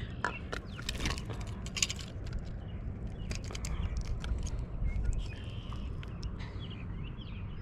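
Handling noise: scattered clicks and light rattles, thickest in the first couple of seconds, over a steady low rumble.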